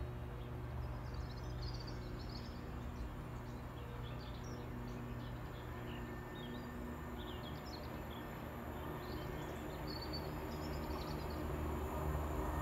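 Small birds chirping and singing in short scattered phrases over a low, steady hum. The hum grows louder near the end as a diesel train approaches along the line.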